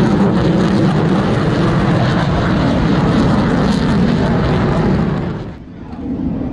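F-16 fighter jet flying past low overhead, a loud steady jet-engine rush that drops away sharply about five seconds in.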